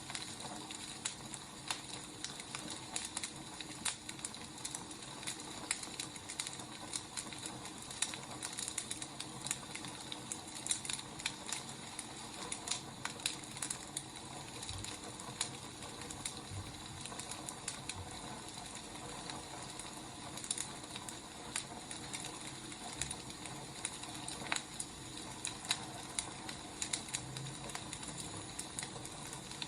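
Wood fire crackling, with irregular sharp pops and snaps over a steady hiss and an occasional soft low thump.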